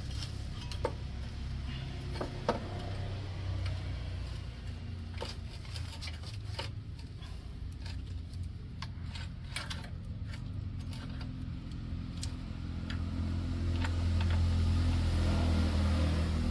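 An engine running with a steady low hum, getting louder near the end, with scattered metallic clicks and knocks over it.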